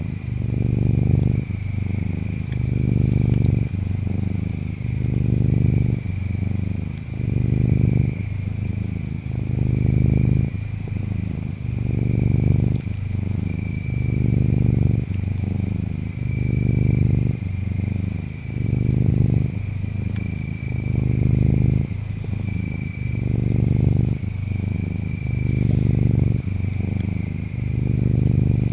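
Cat purring steadily, swelling and easing with each breath about every two seconds. Insects chirp over it in a thin high trill, with scattered very high chirps.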